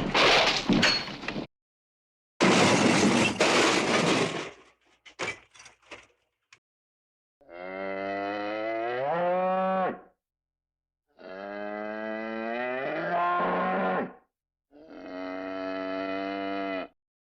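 Two metal crash sound effects, a smaller crash and then a bigger crunching one, followed by a few small clattering hits. Then a cow moos three times in long, angry calls, the first two rising in pitch at the end. The crashes are the loudest part.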